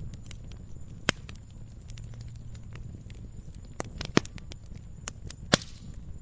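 Wood fire crackling: irregular sharp pops and snaps of burning firewood over a low steady rumble. The loudest pops come about a second in, around four seconds and near the end.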